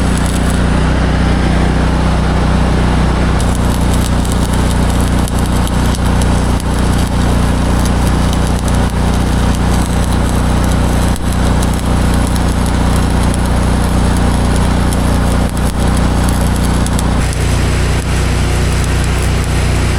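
Vehicle engine running steadily, with a slight drop in its pitch about 17 seconds in.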